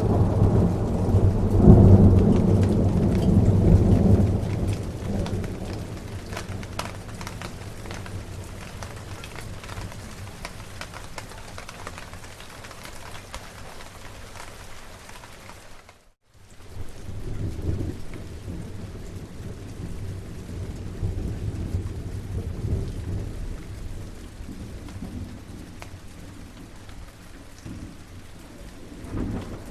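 Steady rain falling, with rolling thunder: a heavy rumble at the start that dies away over several seconds, then softer rumbling later. The sound cuts out completely for a moment about halfway through.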